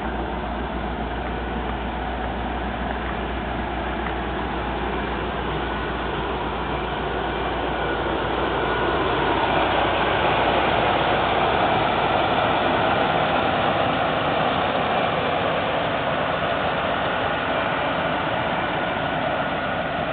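1983 Plymouth Gran Fury police car running, a steady engine-and-road noise that grows louder about eight seconds in and eases off a little toward the end.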